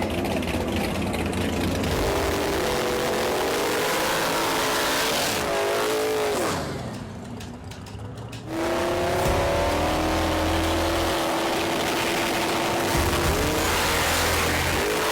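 Street-race car engines revving and running hard, with pitch that holds, dips and climbs again. The sound drops away briefly about halfway through, then comes back at full level.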